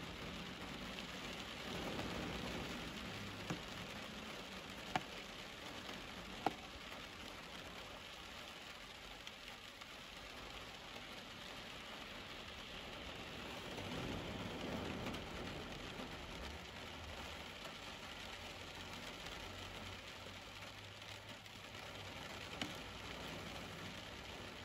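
Steady heavy rain on window glass and roof, heard from behind the glass as an even hiss, with a few sharp drop clicks. A car's tyres swish past on the wet road, swelling around the middle.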